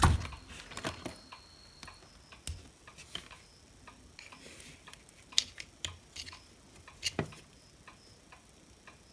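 Scattered clicks and light knocks of small plastic and metal parts being handled while a hot air gun handle is taken apart, the loudest knock coming right at the start.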